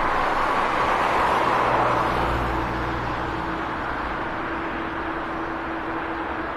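Turboprop engines of an Airbus A400M running: a steady rushing drone with a constant propeller hum through it, swelling slightly about two seconds in and then easing a little.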